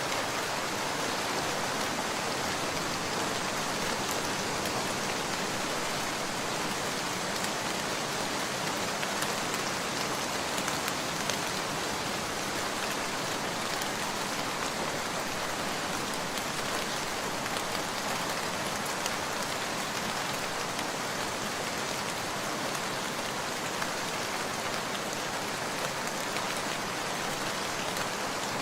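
Steady rain falling: an even, unbroken hiss with small scattered ticks of drops.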